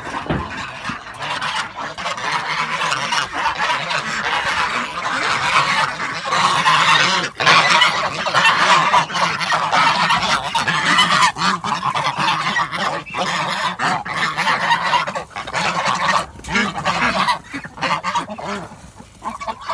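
A flock of domestic geese honking at feeding time, many calls overlapping in a continuous din that is loudest in the middle and thins out near the end.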